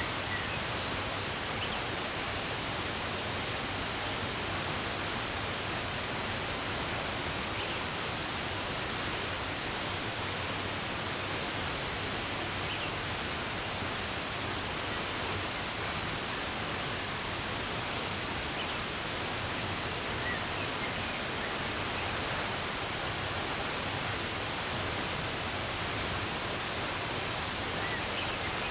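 Steady rush of running water, an even hiss, with a few faint bird chirps now and then.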